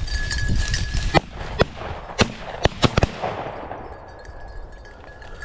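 Shotgun shots fired by several upland hunters at a flushed chukar: a quick string of about six sharp reports between one and three seconds in.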